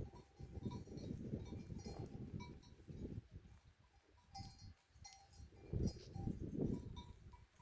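Bells on a flock of sheep clinking now and then, with short scattered rings over an uneven low rumble.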